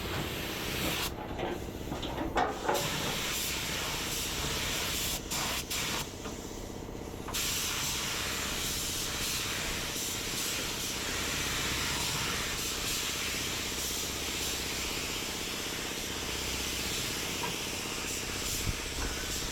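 Compressed air hissing steadily from an air tool. It cuts out briefly about a second in and again about six seconds in, then runs on without a break.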